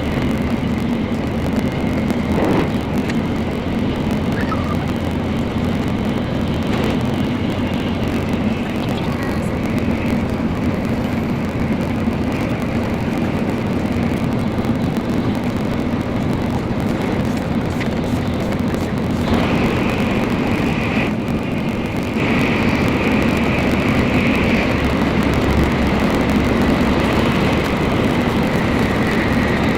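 Running noise of a Nozomi Shinkansen heard from inside a passenger car at speed: a steady rumble and rush that gets louder about three-quarters of the way through.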